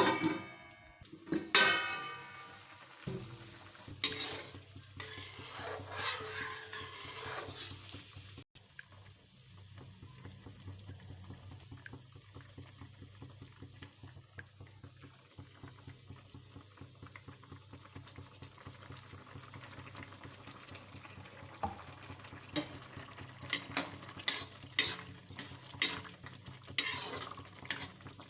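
Metal spoon stirring and scraping in a metal cooking vessel, with repeated clinks and a ringing strike at the start, the clatter busier near the end, over a steady low hum.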